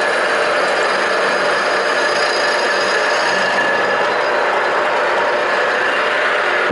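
A machine running steadily, a continuous dense mechanical noise with no pauses.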